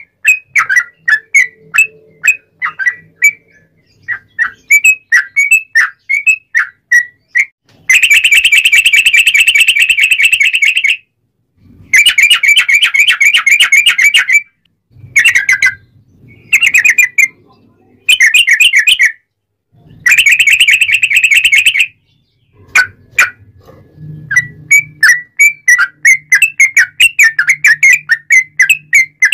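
Sooty-headed bulbul (trucuk) singing: a run of quick, clear chirping notes, broken three times by long, fast trills and by several shorter bursts.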